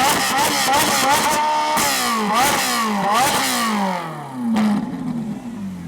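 A performance car engine revving hard as it pulls away, its pitch climbing and dropping again and again with sharp crackles, easing off after about four seconds.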